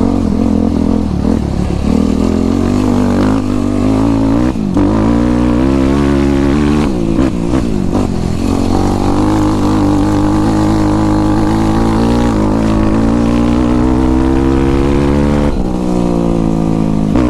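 Yamaha YFZ450 sport quad's single-cylinder four-stroke engine under way, its pitch climbing and dropping several times as the throttle is opened and eased off.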